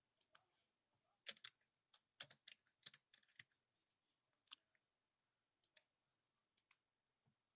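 Faint, irregular clicking of a computer keyboard and mouse, with a quick run of taps about one to three seconds in and a few scattered clicks after.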